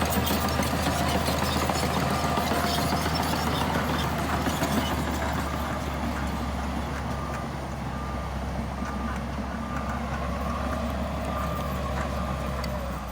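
Heavy diesel earthmoving machinery running with a steady low drone, while a reversing alarm beeps at an even pace, about once a second. The whole sound eases off a little about halfway through.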